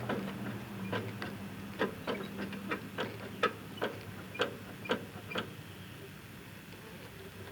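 A series of sharp, irregular clicks, about a dozen over five seconds, that stop about five and a half seconds in.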